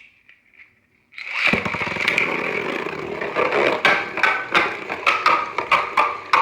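Beyblade Burst top with a Drift driver, hard-launched with a ripcord launcher about a second in, then spinning in a plastic stadium with a steady rasping scrape. From the middle on it gives sharp clacks, about three a second, as the Drift driver scrapes the floor and the top knocks about.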